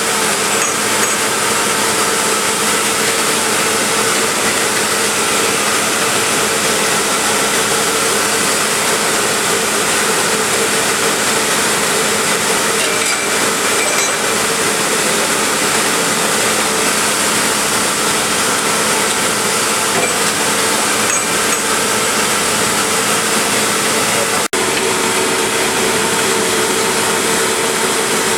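C&B DG-2H-30 double disc grinder running, grinding connecting rods: a loud, continuous grinding noise with a steady hum underneath, broken only by a momentary dropout about 24 seconds in.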